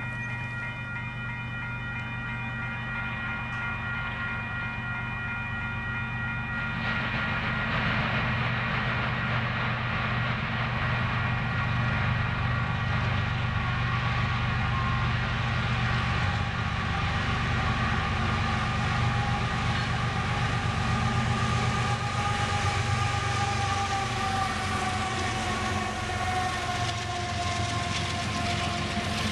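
Diesel locomotives of a Union Pacific double-stack container train approaching and rolling past, getting louder from about seven seconds in, with a high tone that slowly falls in pitch over the second half.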